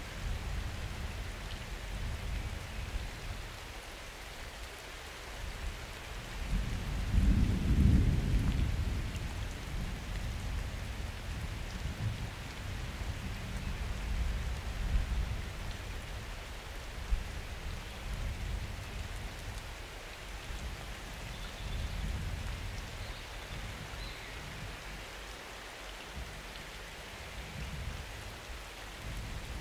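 Steady rain falling, with thunder rumbling low; the loudest roll of thunder swells and fades a few seconds in, and softer rumbles follow later.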